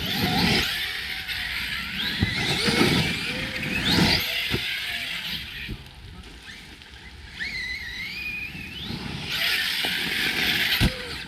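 Brushless electric motor of a large 6S RC basher truck whining as it accelerates in several rising runs, over rushing tyre noise on rough ground, with a few sharp thumps.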